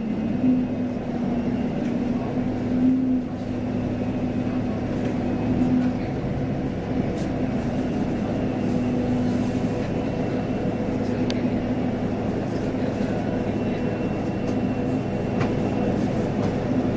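Scania K230UB bus engine running with a steady, even hum.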